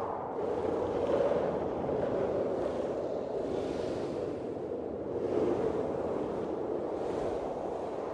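Blizzard wind blowing, a steady rushing noise that swells and eases in gusts every second or two.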